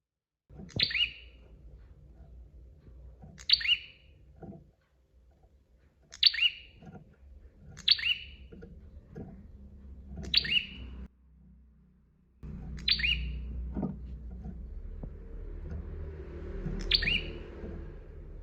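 Prenjak songbird calling, one short sharp downward-sliding chirp every two to three seconds, seven in all, over faint low background noise.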